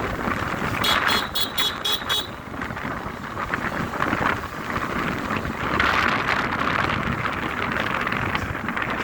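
Loud outdoor street noise with a quick run of about six high-pitched toots, about four a second, starting about a second in.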